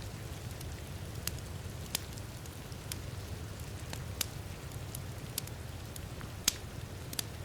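Wood fire crackling in a fireplace: scattered sharp pops about once a second over a steady low rumble, with one louder pop near the end.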